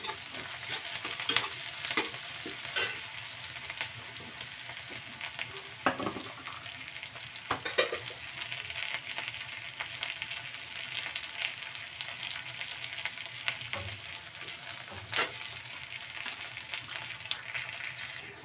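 Chopped onion, ginger and green chillies frying in hot mustard oil in a metal kadhai, a steady sizzle as they brown. A flat metal spatula scrapes and knocks against the pan now and then as they are stirred.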